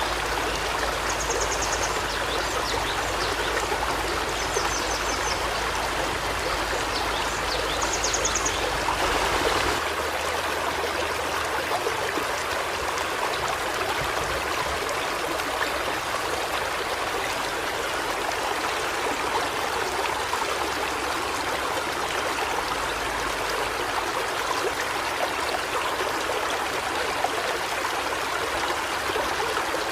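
A river or stream flowing steadily over rocks, with three short, high, rapid bird trills in the first third.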